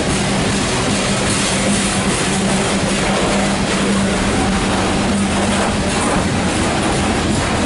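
Loaded CSX coal train rolling past, its steel wheels running on the rails in a steady, loud noise with a constant hum underneath.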